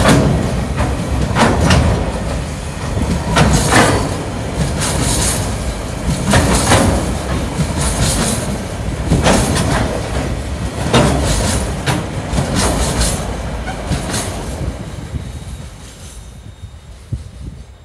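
TasRail container train's loaded flat wagons rolling past at close range, their wheels clattering over the rail joints in a regular rhythm of strokes about every second and a half. The sound fades away after the last wagon passes, about fifteen seconds in.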